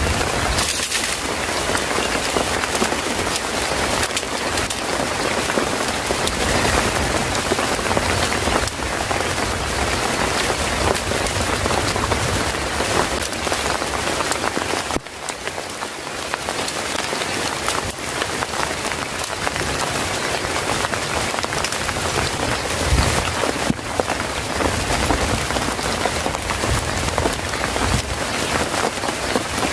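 Steady heavy rain, with many close drops hitting a surface; the sound dips briefly about halfway through.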